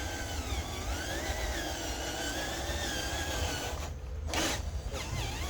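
Small electric motor whining, its pitch rising and falling as it speeds up and slows, with a low rumble underneath; the whine drops out briefly about four seconds in.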